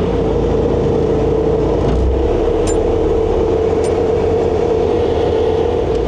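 ASV RC100 compact track loader's diesel engine running steadily, with a constant whine over a low hum.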